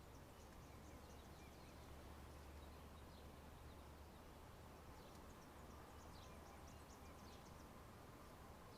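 Near silence: faint outdoor room tone with a steady low hum and scattered faint high chirps, like distant birds.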